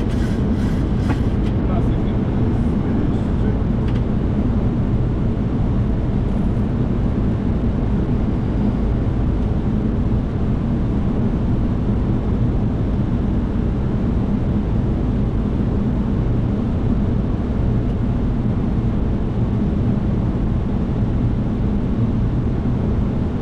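Steady cockpit noise of a Boeing 737 on approach: a constant low rush of airflow and engine sound on the flight deck, with a few faint clicks in the first few seconds.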